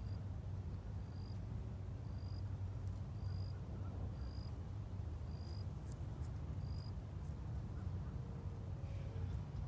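A bird chirping: a short, high, slightly rising note about once a second, seven times, stopping a few seconds before the end. A steady low rumble runs underneath.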